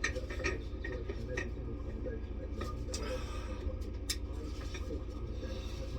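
Scattered light clicks and taps of hand tools working a Tyron safety band off a caravan wheel, over a steady low hum.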